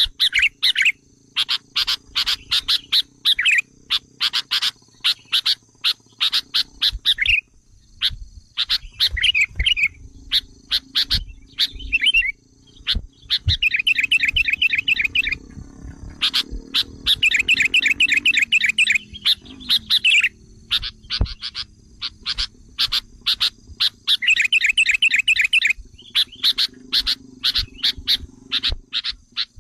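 Sooty-headed bulbul lure call: quick bright chirps broken by three runs of fast chattering trills, a recording used to provoke wild bulbuls into answering.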